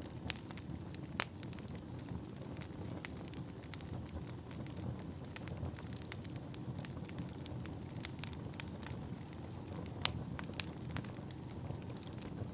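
Wood fire burning in a fireplace: a steady low rumble of flames with frequent irregular sharp crackles and pops, one louder pop about a second in and another near the end.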